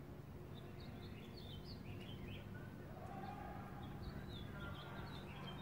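Birds chirping faintly and on and off over a steady low outdoor background rumble.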